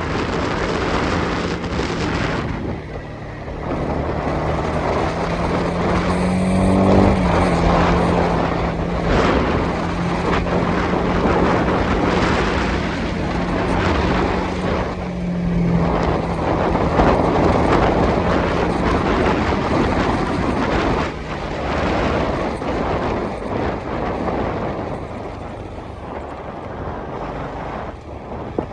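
Honda CB300R's single-cylinder engine running under way, holding a steady note and revving up briefly about seven seconds in, with heavy wind rush on the microphone.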